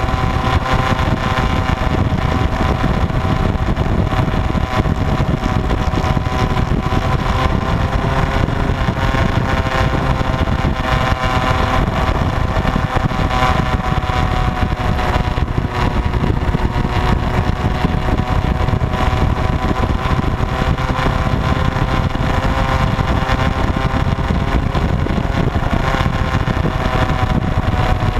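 Motorcycle engine running at a steady cruising speed, its pitch drifting only slightly, over a dense low rumble.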